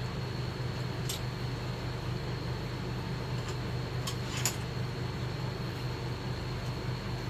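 Steady low machine hum, with a faint steady high whine above it. A few light sharp clicks come in the middle, the loudest about four and a half seconds in.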